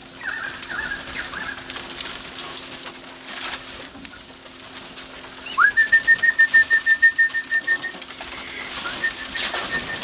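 Wild parrots calling and flapping close by. About halfway through, a bird starts a rapid run of short high piping notes on one pitch for about two seconds, and it pipes again near the end. This is an alarm call, which the people take as the sign of a wedge-tailed eagle overhead.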